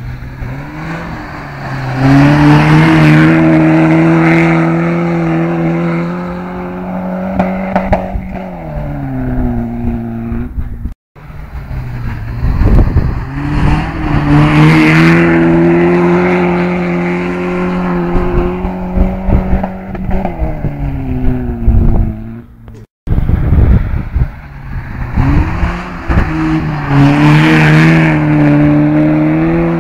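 Volvo 360 rallycross car's engine held at high revs through a gravel corner, its pitch steady for several seconds before falling away; this happens three times, in separate cut-together passes.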